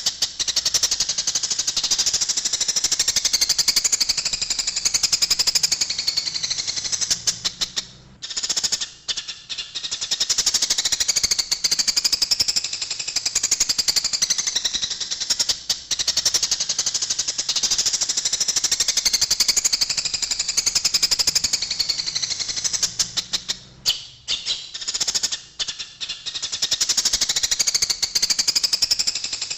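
Eurasian tree sparrows giving fighting calls: a dense, rapid, high-pitched chattering that runs on almost without pause, breaking off briefly twice.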